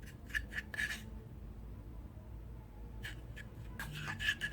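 A spoon scraping and stirring baking soda and milk into a paste in a small bowl: a quick run of short scraping strokes in the first second, a pause, then more strokes near the end.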